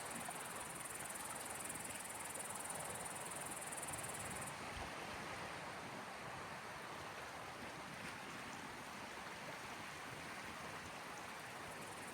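Small waves lapping steadily on the Gulf of Finland shore, a soft, even wash of water. A steady high-pitched insect call runs over it and stops about four and a half seconds in.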